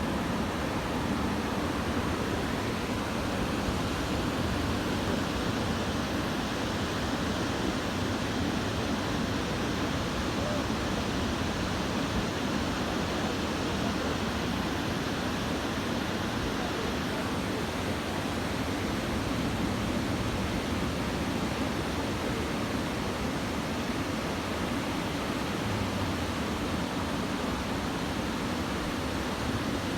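Continuous, even noise of surf breaking on a beach, the swell raised by a passing typhoon.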